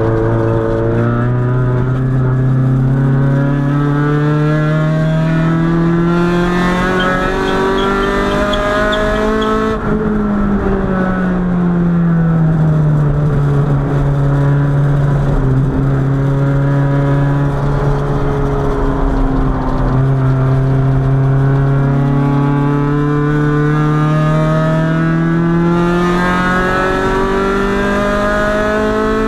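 Honda B20B 2.0-litre four-cylinder engine heard inside the car's cabin, pulling under load with its pitch climbing steadily for about ten seconds, then falling away as the revs drop, holding steady, and climbing again in a long pull in the second half.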